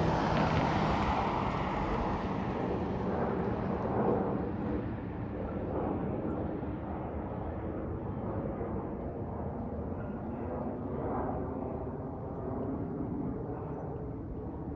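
An airplane's engine noise receding: a steady rumble whose higher-pitched hiss fades away over several seconds as the aircraft flies off.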